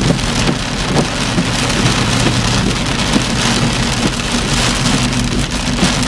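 Very heavy downpour drumming on a car, a dense steady hiss of rain with scattered drop impacts, over a low steady vehicle hum.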